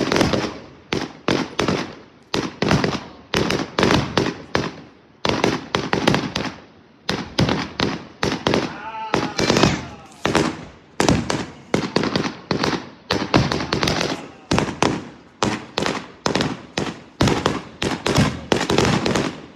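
Fireworks going off in a rapid, continuous barrage of sharp bangs, about two to three a second, stopping shortly before the end.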